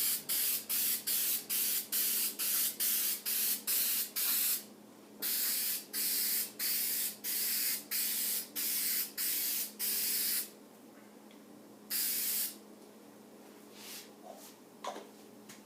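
Aerosol can of spray adhesive hissing in bursts: first a rapid string of short sprays, about three a second, then a series of longer half-second sprays, and a single last spray a little later.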